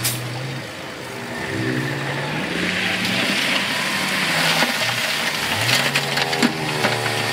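A heavy earthmoving machine's diesel engine revving up and down in several surges, with rock grinding and crackling from about two and a half seconds in.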